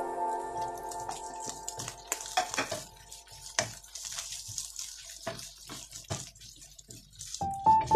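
Sausage slices sizzling in hot oil in a non-stick frying pan, with irregular knocks and scrapes of a spatula stirring them. Background piano music fades out in the first second or two and comes back near the end.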